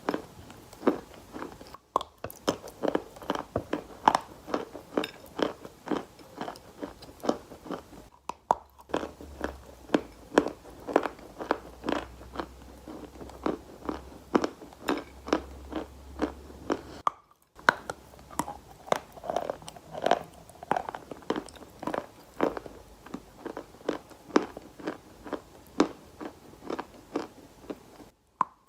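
Wet, gritty sand-like material being crunched close up, in repeated sharp crunches about two a second. There are short silent breaks where one clip ends and the next begins.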